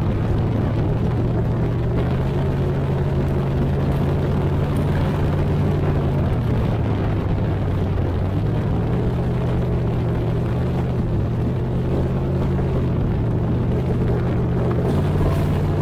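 An engine running steadily at low revs, its low pitch stepping slightly up and down now and then.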